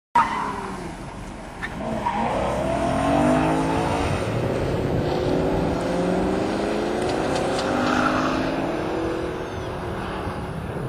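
BMW M3 engine revving up and falling back again and again as the car is driven hard through an autocross cone course.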